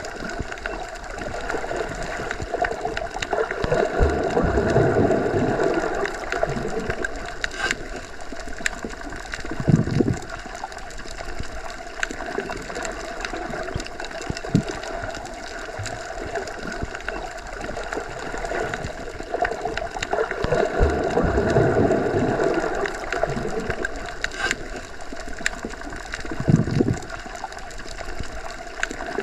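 Underwater ambience: a steady, muffled wash of water as heard submerged. It swells louder twice, some fifteen seconds apart, with a few dull low thuds, one about ten seconds in and one near the end.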